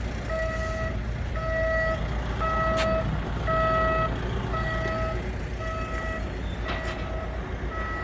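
A heavy vehicle's reversing alarm beeping steadily at about one beep a second, over the low rumble of its running engine.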